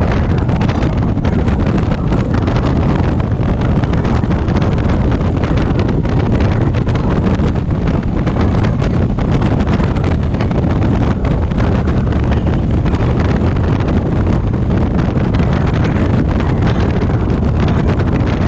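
Loud, steady wind rush buffeting the microphone of a moving motorcycle, a low rumbling roar with no pauses.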